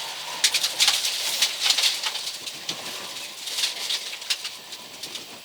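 Rally car driving a stage: a faint rushing hiss with many irregular sharp clicks and rattles, as of stones and debris striking the car.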